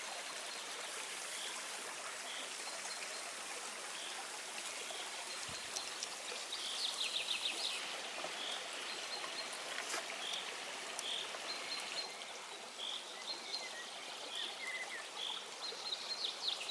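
Steady rush of a running stream, with a songbird repeating a short high note about once a second and breaking twice into quick trills.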